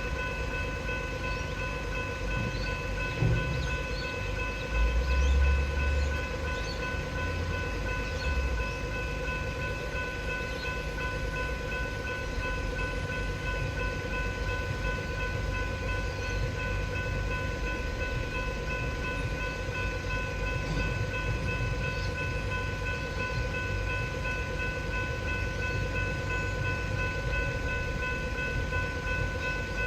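Level crossing's electronic warning bell ringing steadily while a train runs over the crossing, its low rumble and wheel thumps loudest in the first third.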